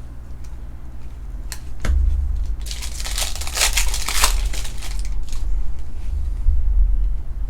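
A foil trading card pack being torn open and its wrapper crinkled, a few sharp crackles first, then a dense burst of crinkling about three seconds in.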